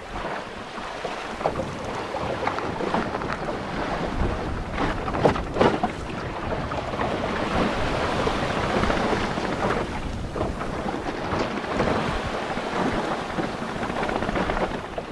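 Strong wind of about 12 m/s buffeting the microphone aboard a small sailboat at anchor, a steady rush with sharper gusts about five seconds in.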